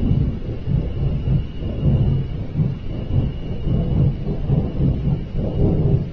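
A loud, deep, continuous rumble of unknown origin that swells and fades unevenly, with a faint steady high tone above it. To the person recording, it sounds like a giant flame.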